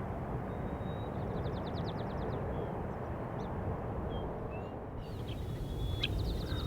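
Outdoor field ambience: a steady low rumble, with a small songbird singing a high whistled note followed by a rapid trill about a second in, and another trilling phrase near the end.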